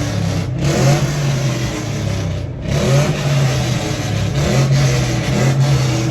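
Car engine running and revving, with a steady low drone and short rises and falls in pitch.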